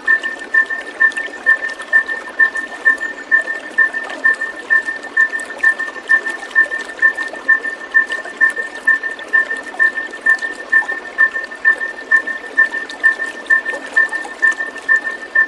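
A steady, single-pitched chirp repeating about twice a second, with a fainter lower note under each, over an even rushing noise like flowing water.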